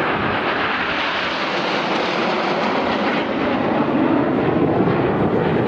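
BAE Hawk T1 jets of the Red Arrows flying over, a steady jet-engine rush that grows deeper and slightly louder in the second half.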